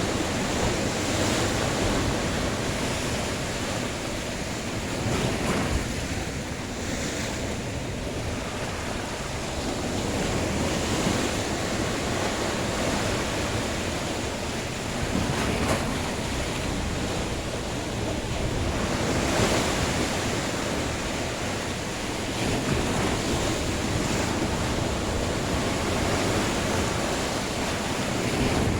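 Sea waves breaking and washing ashore in a continuous surf, swelling every few seconds, with wind on the microphone.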